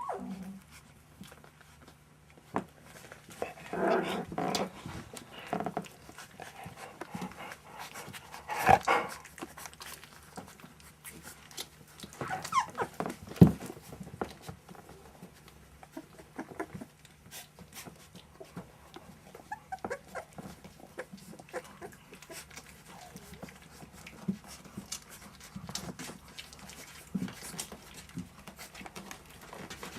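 A litter of month-old puppies playing, with bursts of puppy vocalising about four, nine and thirteen seconds in, among scattered light clicks and scrabbles.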